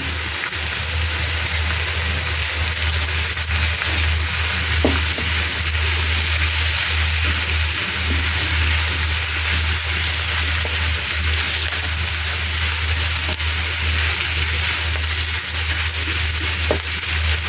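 Mushrooms, bell pepper and other vegetables sizzling steadily as they sauté in hot oil in a pan, over a steady low hum.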